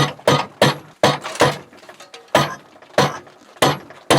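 Hammer blows on the steel handle of a cast iron vise, about nine sharp, ringing metal-on-metal strikes in quick runs with a short gap near the middle, driving out a stuck handle that has just begun to move.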